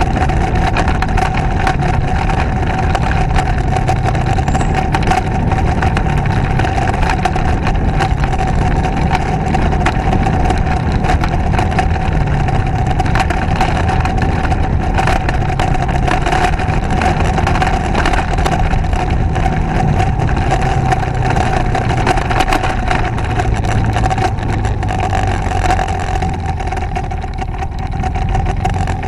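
Motorcycle engine running steadily on the move, with a steady whine riding over a broad rushing noise. It eases off a little near the end.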